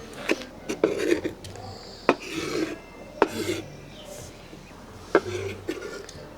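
Cooking utensils rasping and scraping against food or cookware, with a few sharp clicks of metal on the pot or dish spread through the stretch.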